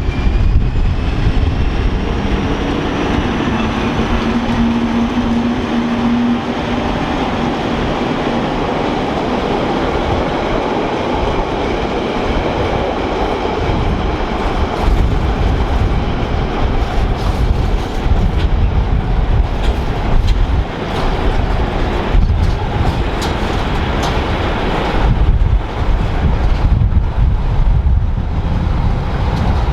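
Rhaetian Railway train running on the Bernina line, a steady rumble with a humming tone for a few seconds in the first quarter and the wheels clicking over rail joints in the second half.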